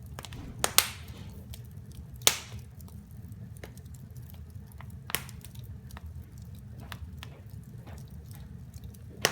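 Wood fire crackling: sharp, irregular pops and snaps, the loudest about a second and two seconds in, over a steady low rumble.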